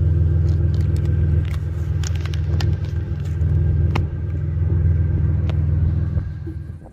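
Chevrolet Monte Carlo's exhaust rumbling at a steady idle through its mufflers, with a few faint clicks; it fades away near the end.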